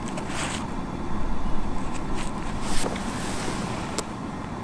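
Paper-firewood fire in a fire pit, giving a few short crackles and a sharp click about four seconds in, over a steady low rumble of wind on the microphone.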